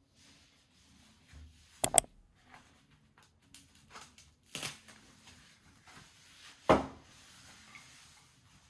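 Household handling sounds: light rustling and shuffling, broken by a few sharp clicks and knocks. There is a quick double click about two seconds in, another about halfway through, and the loudest knock near the end.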